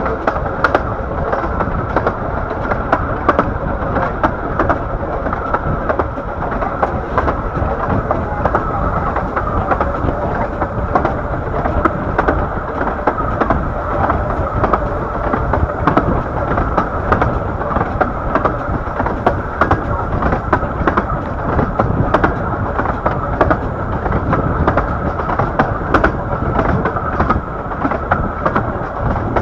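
A 15-inch gauge Bure Valley Railway train running along the line, heard from the leading carriage: a steady rumble of wheels on rails with frequent sharp clicks and rattles.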